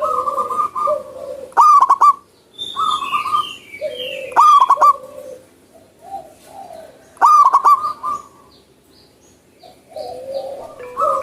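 Zebra dove (perkutut) singing in the wild: three loud, stuttering coo phrases roughly three seconds apart, with softer chirping from other birds between them.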